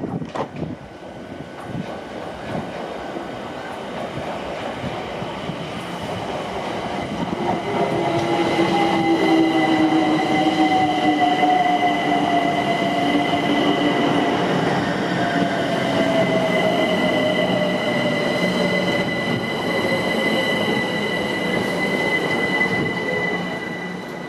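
A train running past with a steady, high-pitched wheel squeal, joined by a whine that falls slowly in pitch. It grows loudest about a third of the way in and fades toward the end.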